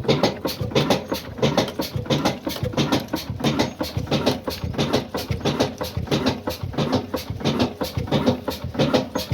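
Old black single-cylinder Ruston Hornsby-type diesel engine running steadily, its exhaust beating in an even, rapid rhythm.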